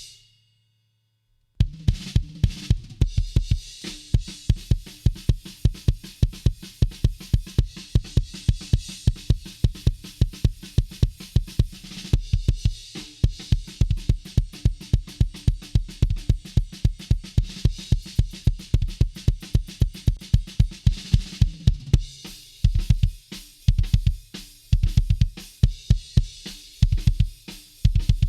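Recorded thrash-metal drums played back through a dbx compressor, with a fast, steady double-bass kick pattern under snare and cymbals. The playback starts about a second and a half in. Near the end it breaks into short stop-start hits.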